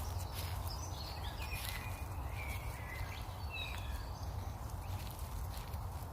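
Small birds chirping in short whistled notes over a steady low rumble, with scattered knocks.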